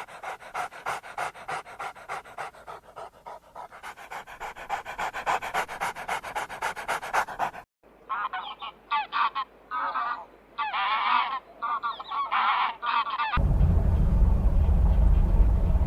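Animal sounds in separate clips: rapid rhythmic panting at about five breaths a second, then a string of short pitched calls with wavering pitch. About three-quarters of the way through it cuts to a steady low rumble.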